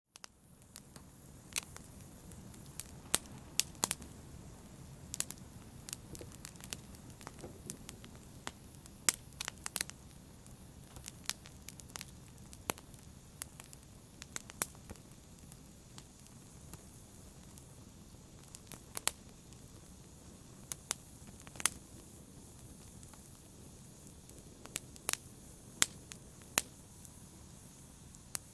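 Wood fire burning in a fireplace: a steady low rumble with sharp, irregular crackles and pops about once a second. It starts suddenly from silence.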